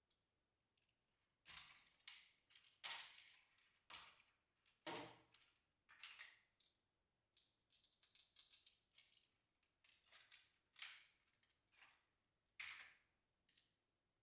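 Slime being squished and pressed by hand, making irregular sharp pops and crackles, some in quick clusters.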